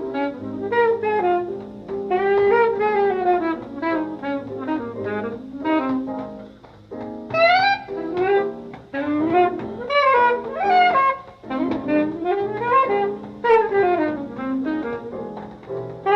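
Jazz saxophone playing fast runs that sweep up and down in pitch, over a small band.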